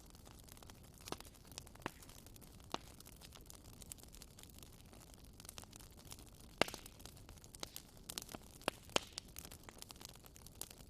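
Campfire burning: wood crackling with irregular sharp pops over a low steady hiss, the loudest pop about two-thirds of the way through.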